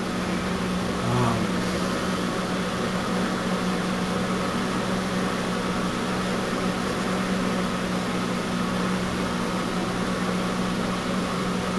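A steady low mechanical or electrical hum with one strong low tone, running evenly with no starts, stops or cranking rhythm.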